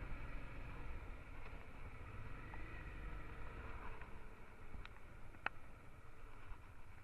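Honda Transalp XL650's V-twin engine running while riding, a steady low rumble under wind and road noise, sounding muffled with little treble. A few sharp ticks about five seconds in.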